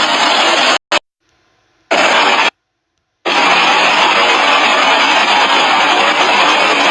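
Loud, steady engine-like rushing noise that cuts out abruptly to silence twice, about a second in and again near the three-second mark, then resumes.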